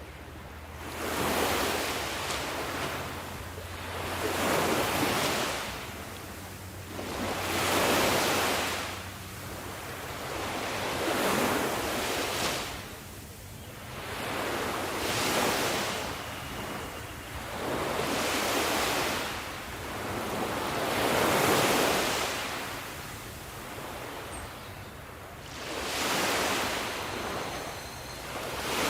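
Sea waves washing in, one surge of surf swelling and fading every three to four seconds, about eight in all.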